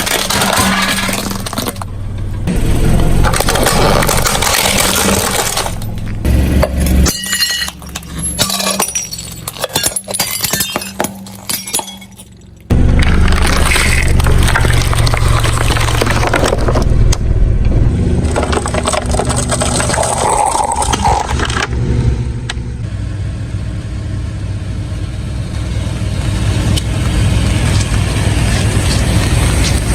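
A car's engine running as its tyres crush objects, with crunching and cracking breakage. The sound comes in several cut-together stretches, with a sudden loud change about a third of the way in.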